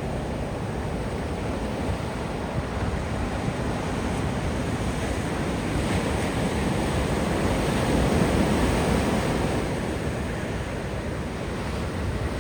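Ocean surf washing onto a beach: a steady rush of breaking waves that swells to its loudest about two-thirds of the way through, then eases off.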